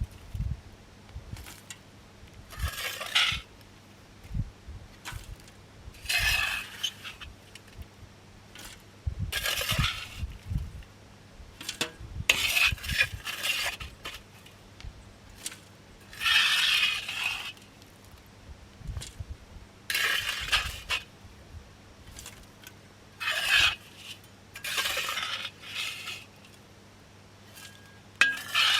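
Metal cookware and utensils clinking and scraping in short bursts every few seconds.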